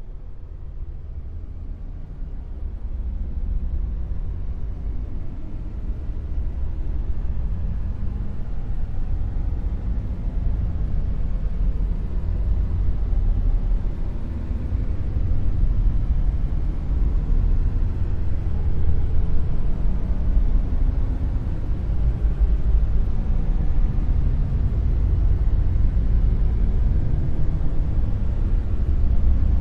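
Dark noise sound effect: a deep, steady rumble with most of its weight in the low bass and little treble. It grows gradually louder over the first half and then holds.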